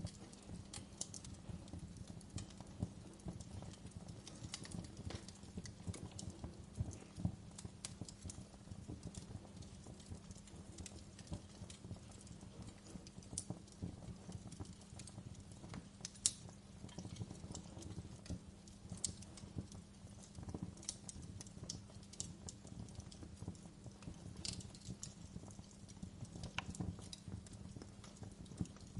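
Wood fire crackling in a fireplace: frequent irregular pops and snaps, one sharper pop about halfway through, over a low steady rumble.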